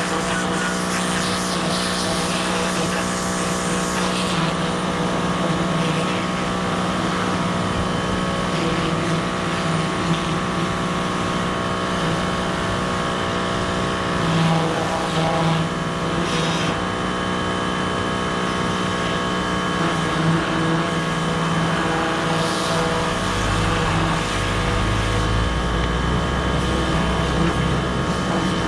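Electric pressure washer running, a steady motor-and-pump hum with the hiss of the spray; a deeper low rumble joins near the end.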